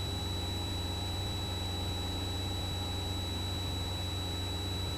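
Cessna 172's piston engine and propeller droning steadily at reduced power during slow flight, heard from the cabin, with a thin steady high-pitched whine over it.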